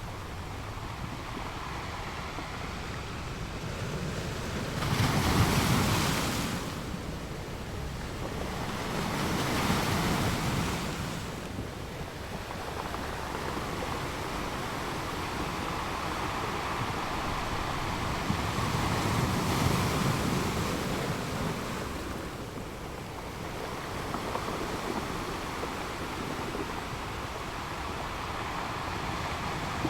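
Waves washing in surges several seconds apart over a steady rush of wind on the microphone.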